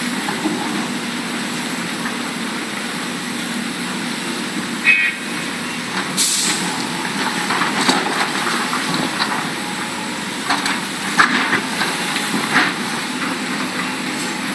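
Large Hitachi Zaxis hydraulic excavator running steadily, with several sharp metallic clanks and knocks and a brief squeal about five seconds in.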